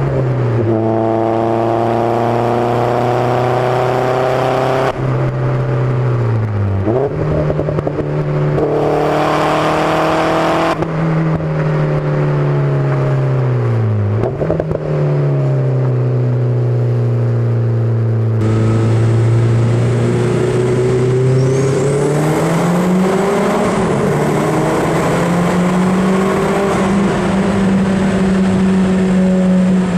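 Modified Opel Speedster Turbo's turbocharged four-cylinder engine and exhaust driving through a tunnel, the engine note drifting in pitch with two brief sharp dips at gear changes. Later the note, heard from inside the car, climbs and then holds steady, with a faint high whine over it.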